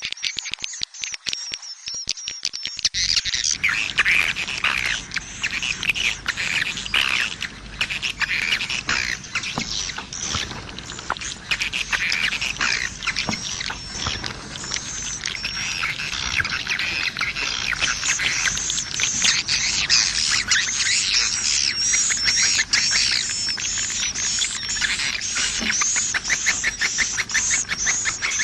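Swiftlet lure call: a recorded track of swiftlets chirping and twittering, the calling sound played to draw swiftlets into a nest house. Dense, overlapping high chirps, settling in the second half into a fast, even series of repeated chirps, about two a second.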